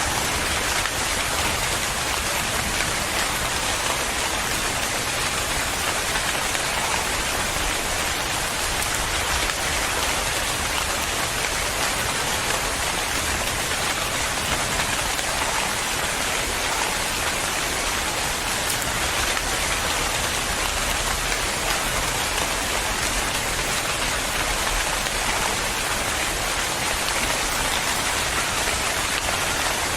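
Steady rain falling, an even hiss of drops on a surface with no let-up and no thunder.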